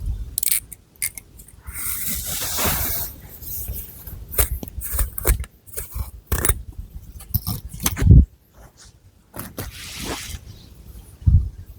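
Long fingernails scratching and rustling through thick hair on the scalp, close to the microphone, in irregular strokes with a longer rustling stretch early on. A low thump about eight seconds in.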